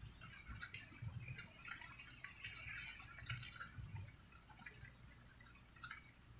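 Rain dripping and pattering faintly in irregular drops.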